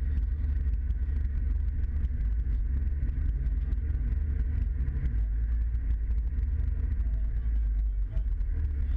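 Scania truck's diesel engine running steadily under way: a continuous low rumble with faint rattling ticks.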